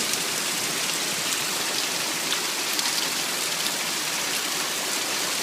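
Heavy rain falling: a steady, even hiss of water with a few faint sharp drop ticks.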